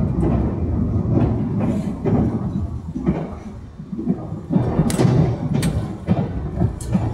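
Running noise of a Puyuma Express TEMU2000 tilting electric train heard from inside the carriage: a steady low rumble that dips quieter about halfway through. Several sharp clicks or knocks come in the second half.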